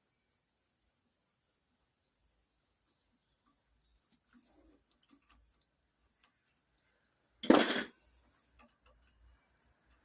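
Small metal clinks of parts and tools being handled, with faint bird chirps, then one loud, brief metallic clatter about three-quarters of the way through.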